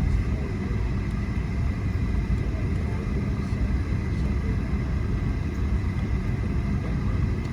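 Steady low rumble of jet airliner cabin noise, with a faint steady high tone running through it.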